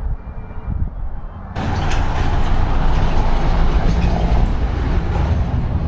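Road vehicle noise: a steady low rumble that suddenly gets louder and hissier about a second and a half in, then stays at that level.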